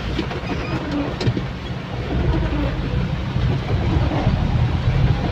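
A vehicle driving in the rain: a steady low engine and road rumble with an even hiss of rain.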